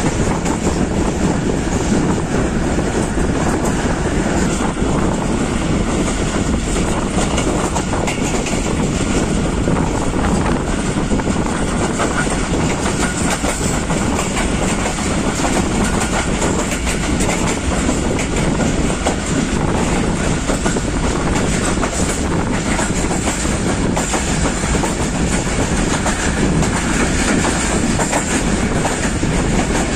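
Passenger train running at speed, heard from an open carriage doorway: a steady rumble of steel wheels on the track with the clickety-clack of rail joints.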